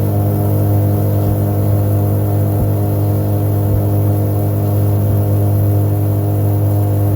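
An engine running at a constant speed, a loud, steady low hum that does not rise or fall.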